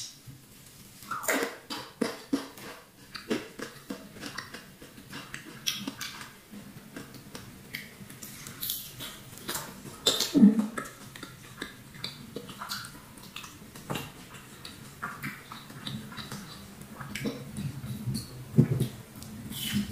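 Close-miked eating sounds: chewing and wet mouth clicks and smacks of someone eating battered fried tempeh (tempe mendoan) with rice by hand, in many short irregular clicks with a few fuller chews.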